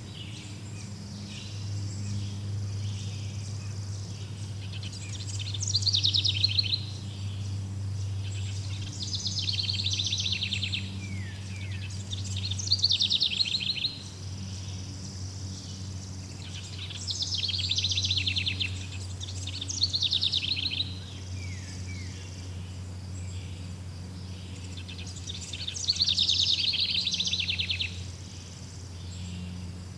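Songbird singing repeated short trilled phrases, each about a second long, every three to four seconds, over a steady low hum.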